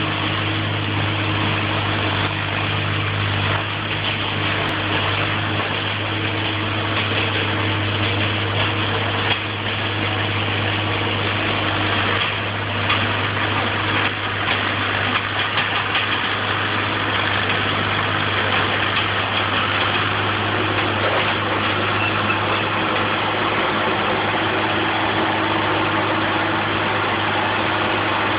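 Oliver OC-46 crawler tractor engine running steadily, with a low, even hum. A few sharp clanks sound in the middle.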